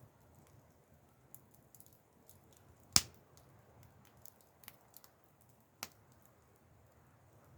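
Wood campfire crackling: scattered small ticks and pops, with one loud sharp crack about three seconds in and another near the end.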